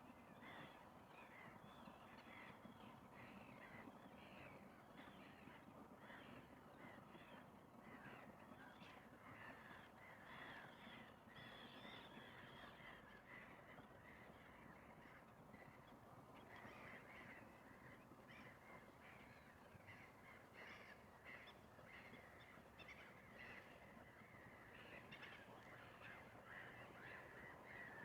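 Faint, dense chorus of distant bird calls: many short calls repeating one after another, over a low, steady background hush.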